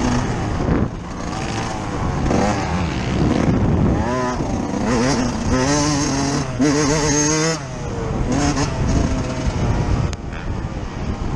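Yamaha YZ125 two-stroke motocross engine ridden hard, its revs rising and falling over and over as the throttle is opened and shut, heard from a camera mounted on the bike. About two-thirds of the way through, the throttle snaps shut and the sound drops, then builds again.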